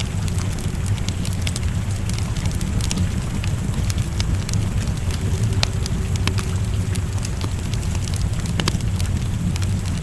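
Fireplace wood fire crackling, with irregular sharp pops, over steady rain and a continuous low rumble.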